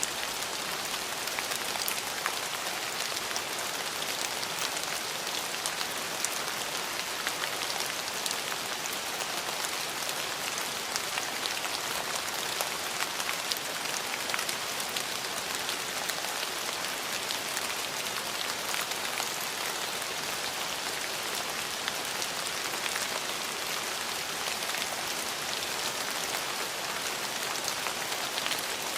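Steady rain falling, an even hiss with many close, sharp drop ticks on a hard surface.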